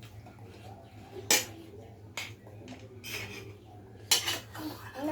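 A spoon clinking against a dish during eating: two sharp clinks, one about a second in and one near the end, with softer scrapes between.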